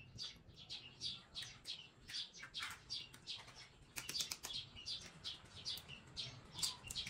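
Small birds chirping steadily, a quick run of short high chirps several times a second. About four seconds in come a couple of sharp knocks, eggs being cracked on the rim of a plastic blender jar.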